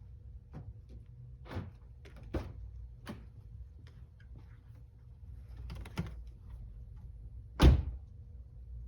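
Several light clicks and knocks, then one much louder thump near the end, typical of a car door being handled and shut.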